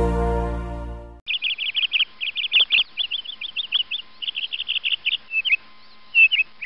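Background music fading out in the first second, then a songbird singing: quick runs of short, high chirps broken by brief pauses.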